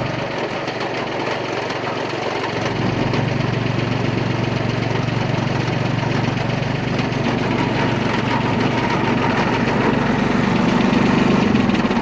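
Mitsubishi MT205D's three-cylinder diesel engine running steadily at idle, smooth. About two and a half seconds in the sound grows a little louder and deeper, and it builds slightly toward the end.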